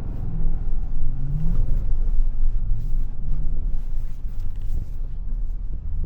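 Pickup truck engine running under throttle while sliding on snow, the revs rising and falling in waves over a steady low rumble.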